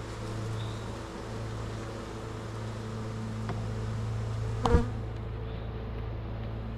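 Honeybees buzzing steadily around an open hive being harvested, with one sharp knock a little under five seconds in.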